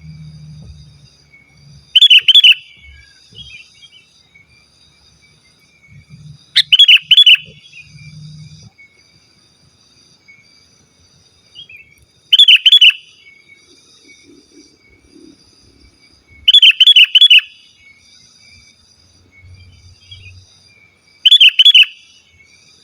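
Sooty-headed bulbul (kutilang) singing five loud, short phrases of a few quick bubbly notes each, spaced four to five seconds apart. Faint, thin chirping continues behind them.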